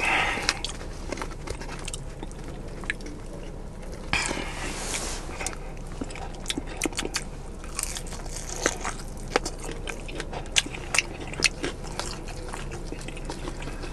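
A person biting into and chewing breaded fried chicken wings in garlic parmesan sauce close to the microphone, with many short sharp crunches and smacking mouth clicks.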